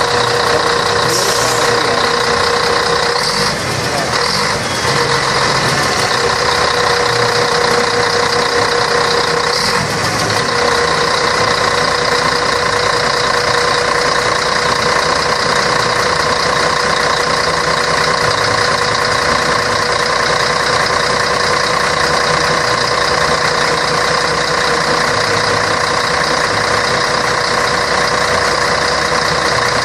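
Scania K113 bus's 11-litre six-cylinder diesel engine running steadily, an even drone with a high, constant whine over it.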